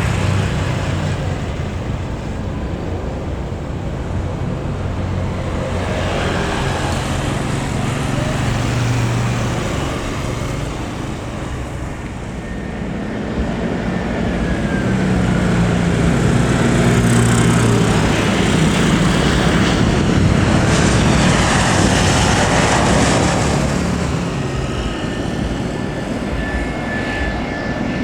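Airliner's engines running as it passes close by, a steady low rumble that swells to its loudest about halfway through and then eases off toward the end.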